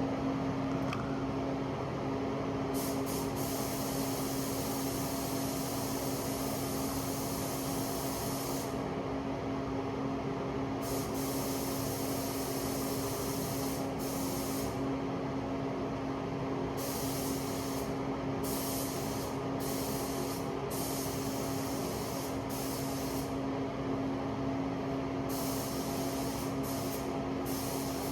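Paint spray gun hissing in on-and-off bursts, from a fraction of a second to several seconds each, as parts are sprayed in a paint booth, over a steady machine hum.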